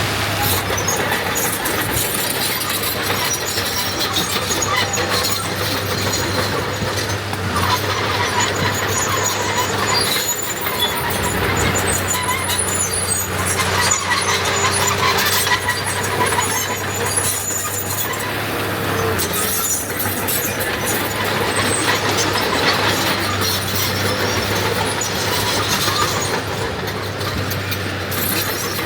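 Heavy diesel machinery, a D21 bulldozer and 5-ton dump trucks, running steadily under load, with occasional high squeals over the engine hum.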